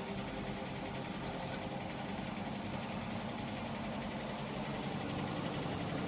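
Hotpoint washing machine on its spin cycle: the drum and motor run with a steady hum and some vibration, growing slightly louder near the end as it picks up speed. The machine shakes a little, which the owner puts down to uneven floorboards under it.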